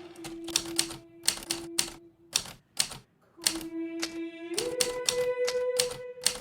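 Hermes Baby portable typewriter keys striking in irregular quick runs, with a brief pause in the typing midway. Under it a held music note plays, stepping up in pitch about two-thirds of the way through.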